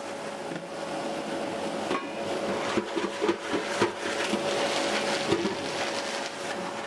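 Fireplace damper being opened and closed repeatedly to check that it works: a run of sharp clanks and knocks over a steady hum.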